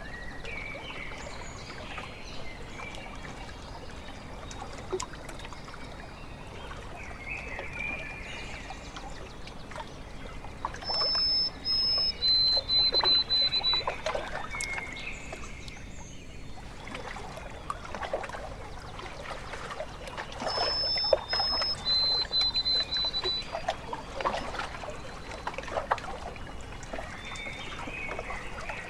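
Lake water lapping and trickling at the shore, with a small splash now and then. Over it a songbird sings high, clear whistled notes, one phrase about a third of the way in and another about two-thirds in.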